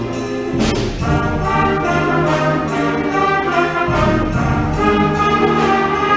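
A middle school concert band playing a Christmas piece live, with brass and woodwinds sounding full held chords.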